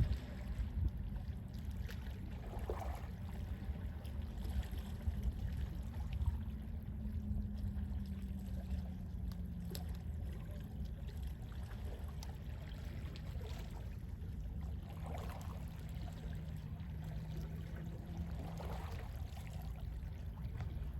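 Calm sea waves lapping softly, swelling gently every few seconds over a steady low rumble of sea wind.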